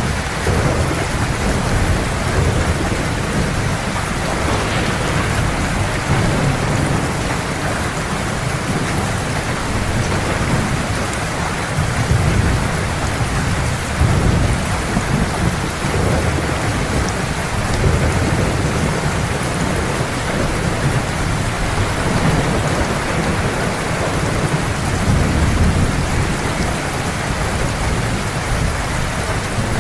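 Heavy steady rain with thunder rumbling low underneath, swelling and fading in long rolls.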